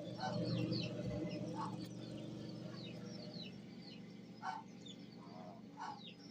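Newly hatching chicks peeping in many short, high chirps, with a few lower calls about one and a half, four and a half and six seconds in. A steady low hum runs underneath.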